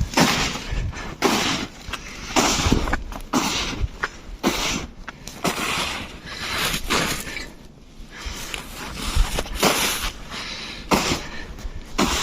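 Footsteps crunching in snow, a step roughly every second, pausing briefly about two-thirds of the way through.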